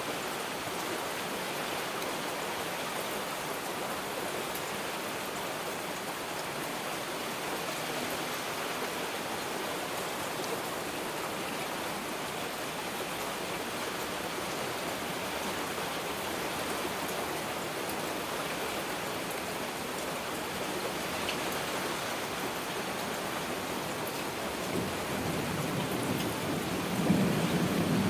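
Heavy rain falling steadily, an even hiss of drops. Near the end a low rumble of thunder builds and grows louder.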